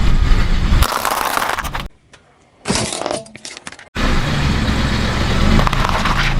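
Car running and rolling over objects, with cracking and crunching as things are crushed under the tyres. About two seconds in it cuts to near silence, then a short run of crackling snaps, and the loud car rumble returns near four seconds in.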